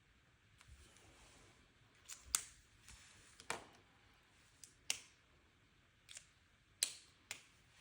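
Stationery being handled at a desk: a run of irregular sharp clicks and taps, like pen caps and scissors, louder from about two seconds in.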